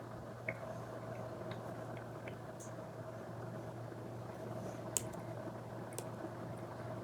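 Apple Pencil tip tapping and stroking on an iPad screen covered with a paper-feel film: a few sharp taps, the loudest about five seconds in, over a steady low room hum.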